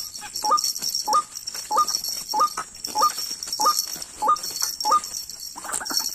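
White-breasted waterhen calling: a short rising note repeated evenly about every 0.6 s, nine times. Near the end it gives way to a busier jumble of calls.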